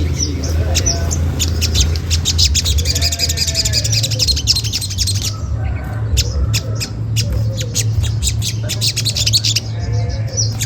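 Olive-backed sunbird giving rapid series of sharp 'cret cret' chip calls, a lure call used to draw other sunbirds into answering, over a steady low hum.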